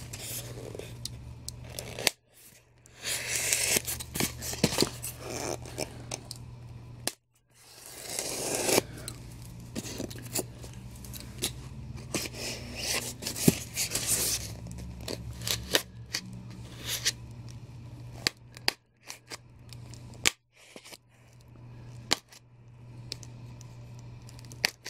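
Packaging being handled and torn open while unboxing a collectible statue: irregular rustling, tearing and scraping with many sharp clicks and knocks.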